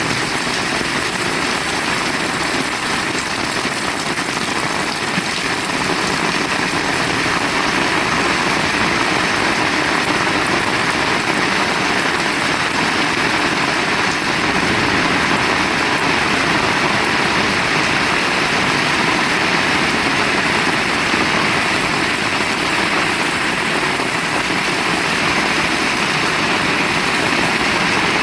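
Heavy rain pouring steadily, a dense, even hiss with no break.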